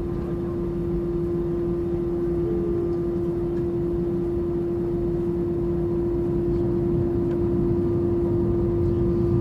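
Airbus A320 cabin noise while taxiing: the engines and air conditioning give a steady low rumble with one constant hum tone, slowly growing a little louder.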